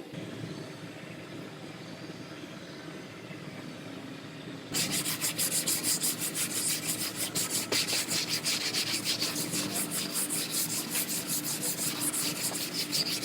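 Sanding on a car body panel. It starts about five seconds in and goes in rapid back-and-forth strokes, about three a second.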